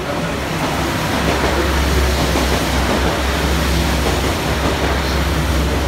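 JR Hokkaido diesel limited express train running into the station along the platform and passing close by: a steady low engine hum under loud, even wheel-on-rail noise.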